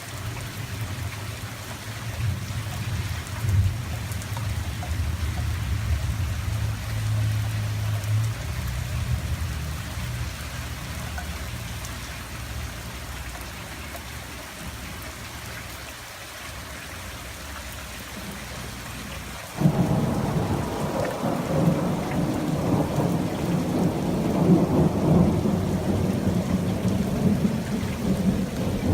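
Steady rain falling, with a low roll of thunder in the first several seconds that fades out. About two-thirds of the way in comes a sudden, much louder crack of thunder that keeps rumbling and crackling.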